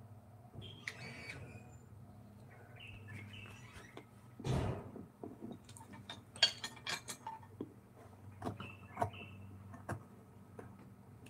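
Faint, scattered chirps of small birds, with a few light clicks and knocks in the middle stretch over a steady low hum.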